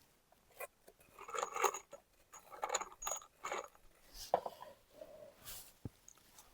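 Faint, scattered clinks and rustles of small hard objects being handled, with a single sharp click near the end.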